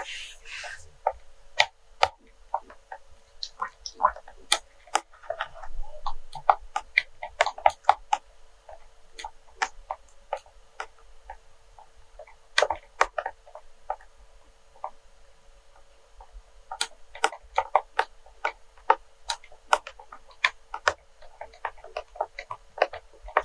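ASMR tapping on wax melts: quick, irregular, sharp taps and clicks, often in rapid clusters, thinning out briefly about two-thirds of the way through.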